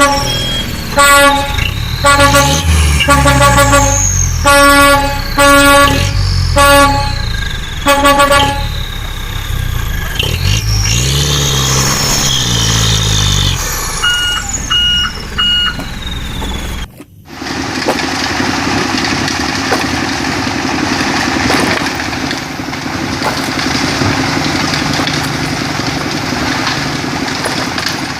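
Vehicle horn honked in a string of about seven or eight short blasts, followed by three quick higher-pitched beeps. After a sudden break, an engine runs steadily.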